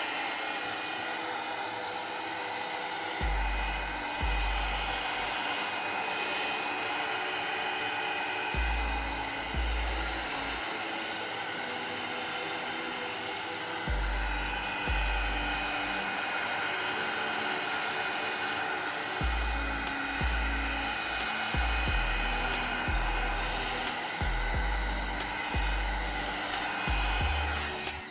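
Heat gun blowing steadily, softening the adhesive of a smartphone's back cover, over background music with a repeating bass line.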